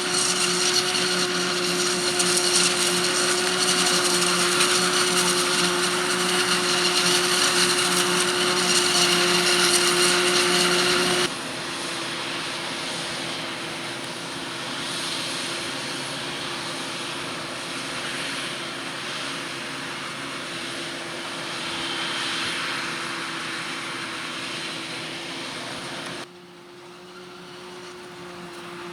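Harvest machinery running steadily with a high, even whine over engine noise. The sound changes abruptly twice, about 11 and 26 seconds in, and is loudest in the first part.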